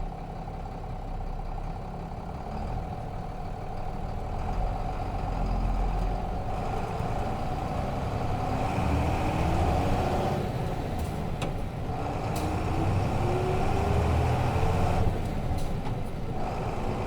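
Nissan Diesel RM bus's FE6 inline-six diesel engine heard from inside the bus as it pulls and accelerates, the engine note climbing steadily. Near the end the note breaks off and settles lower, as with a gear change on the manual gearbox. There are a few light rattling clicks.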